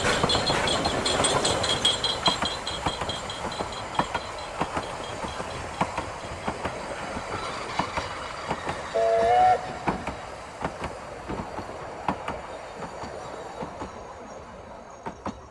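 Narrow-gauge steam train running, its wheels clicking over the rail joints and slowly fading, with a short whistle about nine seconds in as the loudest sound.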